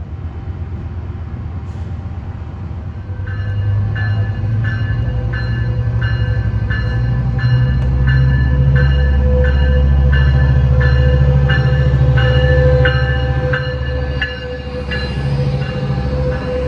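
Diesel locomotive rumbling heavily as a train comes into the station, its bell ringing steadily about one and a half strokes a second from about three seconds in.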